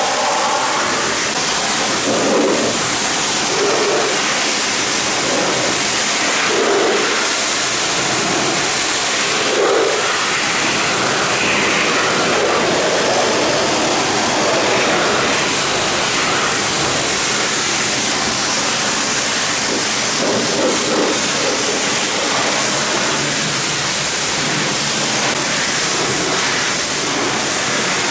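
Pressure washer spraying water onto a car: a loud, steady hiss of the water jet, its tone shifting a little as the spray moves over different surfaces.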